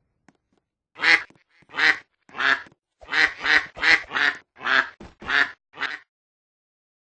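A bird calling about ten times in quick succession, each call short and harsh with a clear pitch, a few calls a second.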